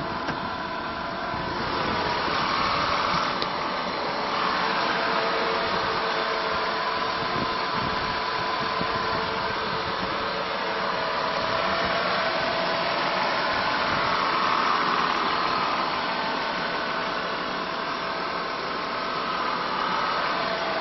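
Mercedes-Benz W124 cabriolet's 230 Kompressor engine idling, with a steady whine from its supercharger over the running engine.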